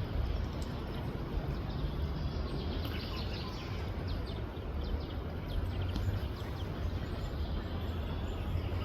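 Steady low outdoor background rumble, with faint high bird chirps from about two and a half to seven seconds in.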